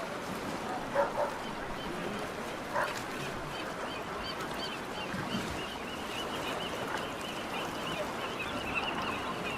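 A dog barking: two quick barks about a second in and one more near three seconds, over a steady haze of outdoor noise. A string of quick, high chirps runs through the second half.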